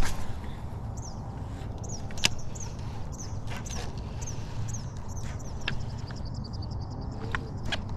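A small bird chirping over and over in short high notes that fall in pitch, over a steady low rumble. Several sharp clicks are scattered through it.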